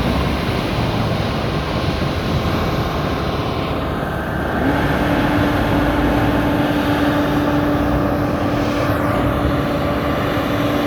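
Larue T60 self-propelled snow blower running with its blower head working, a loud, steady heavy-machine noise. About halfway through, a steady hum comes in, rising slightly before it levels off.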